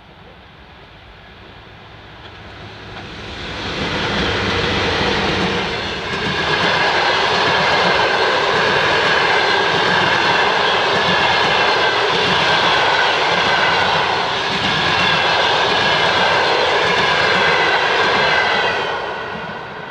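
A VL80S electric locomotive and its passenger coaches passing at speed: a steady roar with a high whine over it. It builds over the first few seconds as the train arrives and fades near the end as it goes by.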